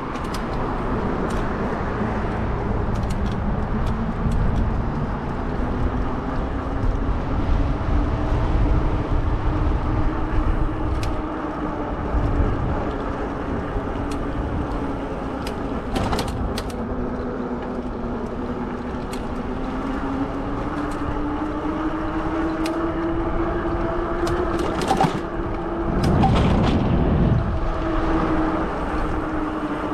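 Modded fat-tire e-bike's electric motor whining steadily, its pitch slowly rising and falling with speed, over a constant rumble of wind and tyres. There are a few faint clicks, and a louder rumble near the end.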